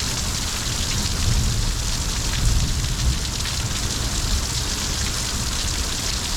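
Heavy thunderstorm rain pouring steadily, a dense even hiss, with a low rumble underneath.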